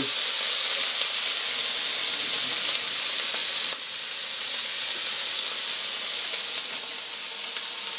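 Halloumi slices sizzling on a hot ridged griddle pan: a steady, even hiss that drops a little in level just before halfway.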